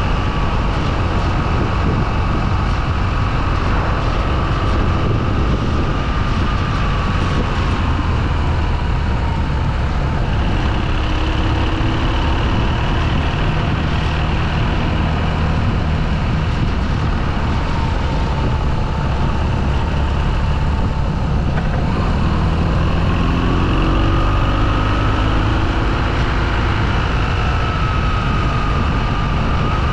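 Motorcycle engine running steadily while riding, mixed with wind and road noise, with a thin whine that drifts slowly down in pitch and climbs again near the end.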